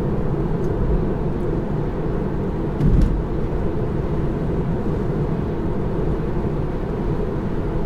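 Steady tyre and road rumble inside the cabin of an electric Tesla Model 3 driving on a wet road, with a brief louder thump about three seconds in.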